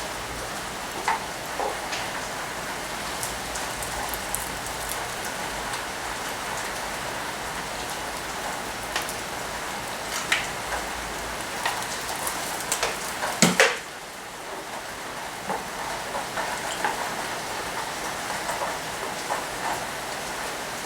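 Heavy rain falling in a steady hiss, with scattered sharp clicks and knocks and a louder clatter about two-thirds of the way through, after which a low rumble under the rain drops away.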